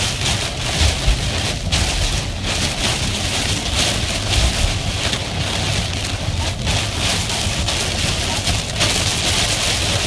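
Hurricane downpour of heavy wind-driven rain on a moving car: a dense, steady hiss of rain over a low wind rumble.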